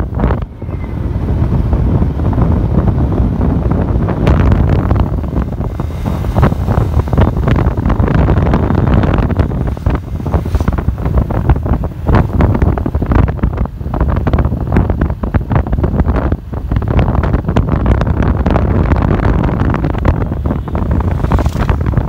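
Wind buffeting the microphone on a moving motorcycle, a loud, rough rumble that gusts unevenly, with the ride's road and engine noise underneath.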